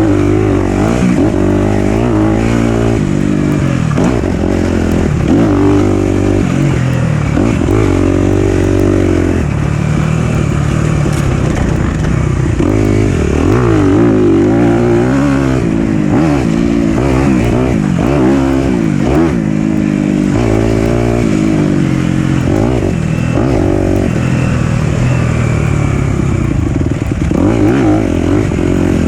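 Single-cylinder four-stroke dirt bike engine revving up and down continuously as it is ridden along the trail, the pitch rising and falling with each throttle change and shift.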